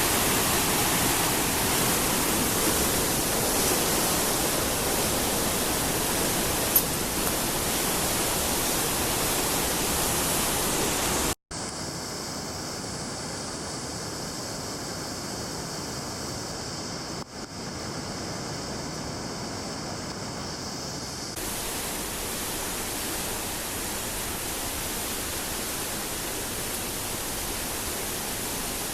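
Rushing water of a mountain stream or waterfall, a steady even hiss. It drops abruptly about eleven seconds in to a quieter, duller rush and comes back fuller about ten seconds later.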